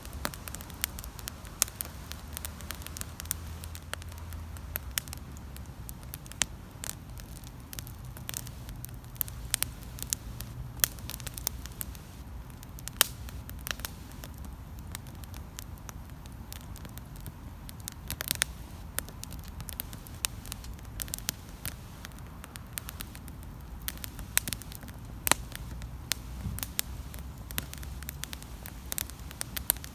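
Campfire burning, wood crackling and popping in irregular sharp snaps, some louder, over a low, soft rumble.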